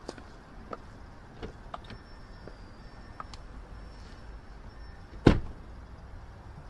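A few light clicks and knocks, then a single loud thump a little past five seconds in: a vehicle door being shut.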